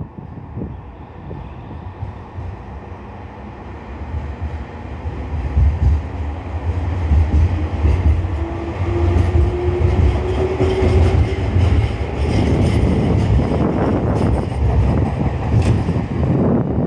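Nankai Koya Line electric train running past at the platform, a heavy rumble that builds over the first few seconds, with a faint rising whine partway through and wheels clacking over rail joints in the second half.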